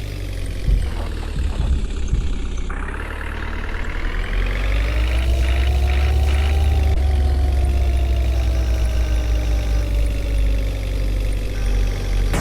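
Heavy diesel engine of earth-moving machinery running with a steady low rumble. About three seconds in it picks up, and its pitch climbs for a few seconds as it revs under load, then slowly sinks again.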